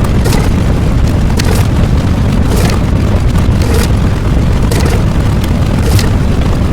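A loud, continuous rumbling boom with scattered crackles, heavy in the low end.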